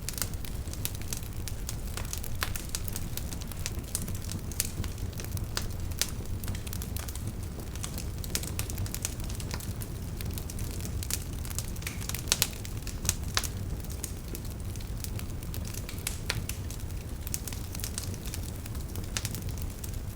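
Wood fire burning in a fireplace: a steady low rumble of flames with frequent irregular crackles and pops, a few sharper pops a little past the middle.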